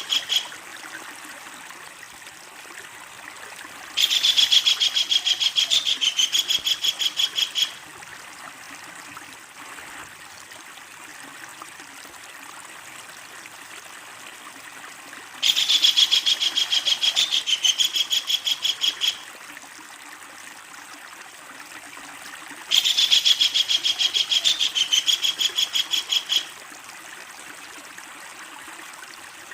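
Kingfisher giving its loud, long laughing rattle: a fast, even series of sharp notes about three and a half seconds long, repeated three times with pauses of several seconds. A steady background hiss runs between the calls.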